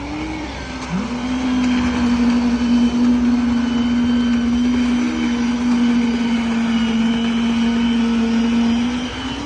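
A small engine or motor running at a steady high pitch, its pitch dipping briefly and recovering, as under load, about a second in and again near the end.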